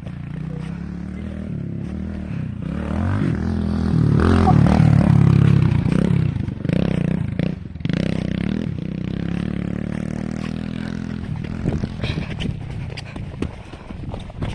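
Dirt bike engine running and revving, growing louder to its loudest about four to six seconds in, then running more steadily and fading near the end.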